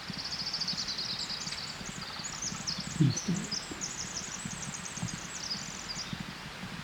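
A small songbird singing a long, rapid run of high-pitched notes, with a low thump about three seconds in.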